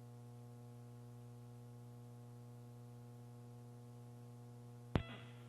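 Steady electrical hum with evenly spaced overtones on an open communications voice loop, with one sharp click near the end.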